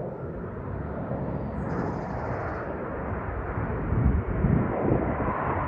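Aermacchi MB-339 jets passing, a rushing jet rumble that grows louder about four seconds in, with low surging rumbles.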